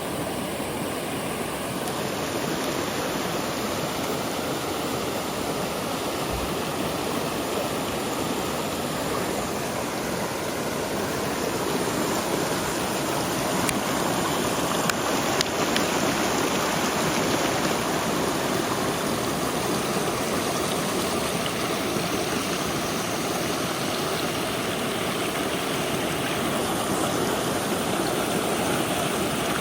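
River water rushing steadily: an even, continuous wash of flowing water.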